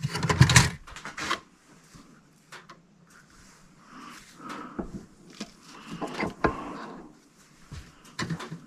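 Clatter and knocks of parts and tools being handled during shop work, loudest in a rattling burst at the very start, then scattered knocks and rubbing.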